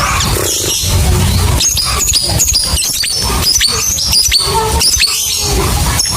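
Lovebird chattering: a rapid, unbroken string of high, sharp chirps and squeaks, the long 'ngekek' call used to set other lovebirds singing, over a low background rumble.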